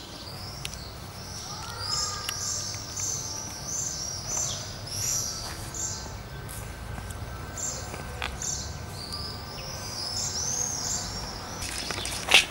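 Small birds chirping in quick runs of short, high notes, over a low steady rumble. A single sharp click near the end is the loudest sound.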